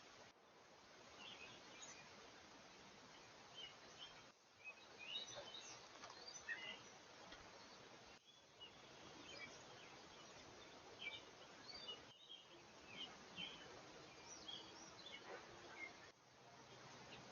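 Faint chirps and tweets of small songbirds over a steady hiss. The sound cuts out briefly about every four seconds, as if short trail-camera clips were joined together.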